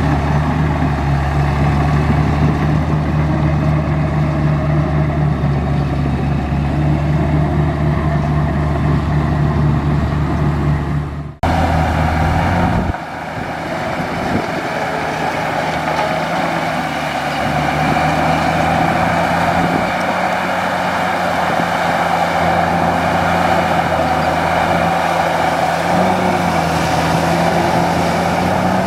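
Bulldozer's diesel engine running steadily under load. A little over a third of the way in, the sound breaks off abruptly and comes back changed: the engine hum is weaker and a mid-pitched mechanical noise sits over it.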